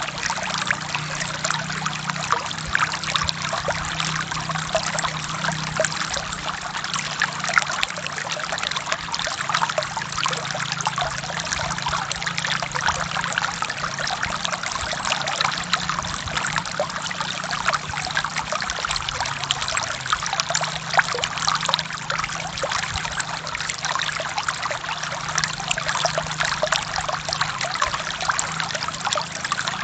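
Stream water flowing steadily: a dense, even rush of countless small splashes.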